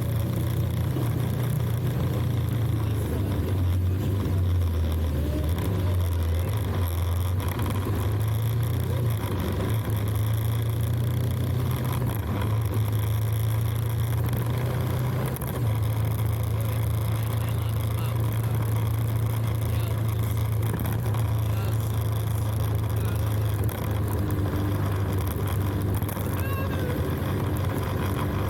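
Motorcycle engine running under way, a steady low drone that wavers in pitch a few seconds in and shifts once near the middle.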